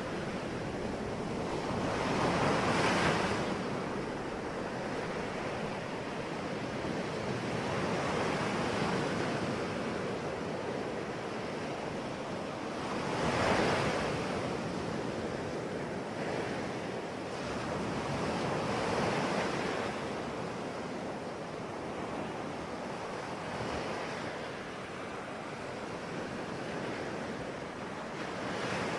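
Ocean waves breaking on a shore, a continuous surf wash that swells as each wave breaks, most strongly about 3 and 13 seconds in and again near 19 seconds.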